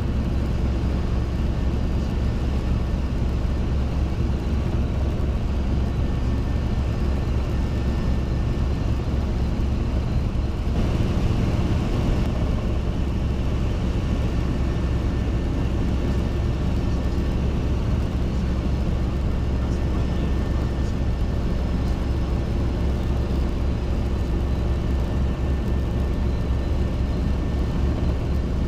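Robinson R22 helicopter's piston engine and rotor running with a steady drone, growing slightly louder and fuller about ten seconds in.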